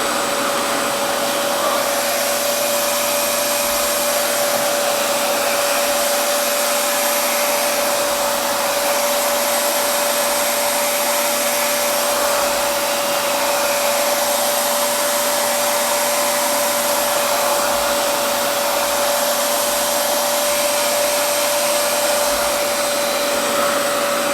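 RevAir reverse-air blow dryer running steadily at a higher heat setting, its suction fan drawing a section of damp hair into the tube: a loud, even rush of air with a constant whine.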